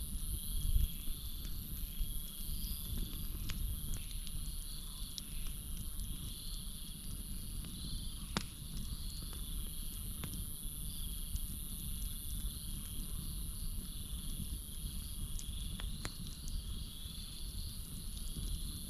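Campfire crackling, with scattered sharp pops over a low rumble, set against a steady high chorus of crickets and a pulsing, repeated chirping of night insects or frogs.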